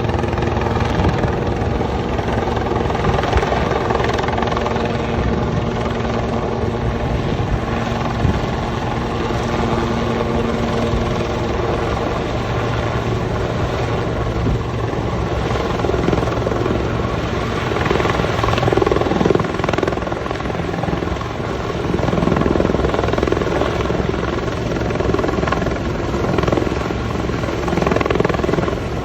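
Sikorsky S-76 twin-turbine helicopter running through an approach and landing, a steady whine and rotor hum with held tones that shift about a third of the way through.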